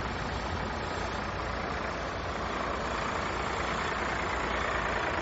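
Aircraft engines running, a steady rushing noise that swells slightly through the middle.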